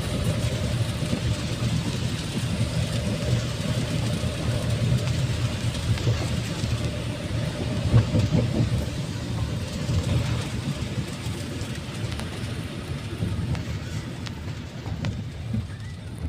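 Car cabin noise while driving: a steady low engine and road rumble with a faint hum, easing off slightly near the end.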